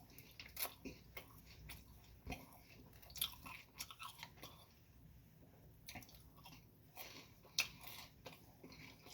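A person chewing a mouthful of spring roll, with irregular short clicks of the mouth and teeth.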